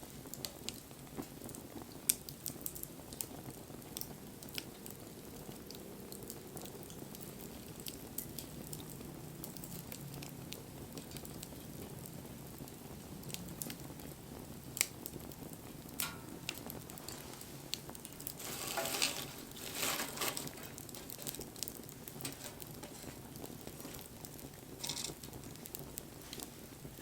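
Wood fire burning: scattered sharp crackles and pops over a low, steady rush of flame. A louder hissing surge lasts about two seconds, a little past the middle.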